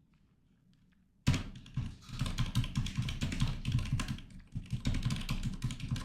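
Fast typing on a computer keyboard close to the microphone, a dense run of rapid clicks and thuds that starts about a second in.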